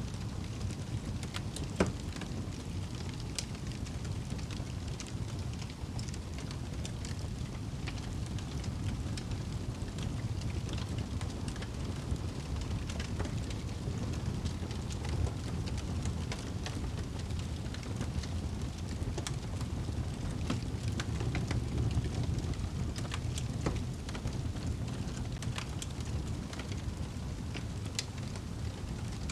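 Fireplace fire crackling: a steady low rumble of flames with scattered sharp pops and snaps throughout.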